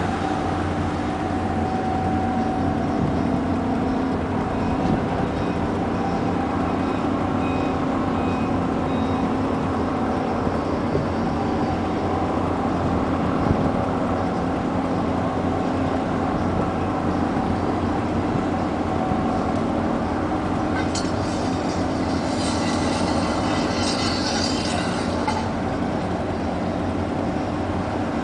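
A ship's engine running with a steady, even hum as the ship leaves port. About three-quarters of the way through, a short hiss rises over it for a few seconds.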